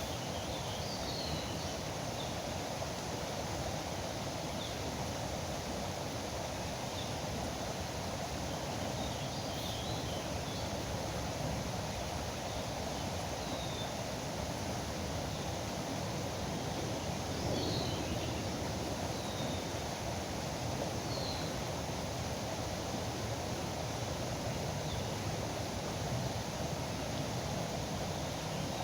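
A river running with a steady rushing, with a few short bird chirps now and then over it.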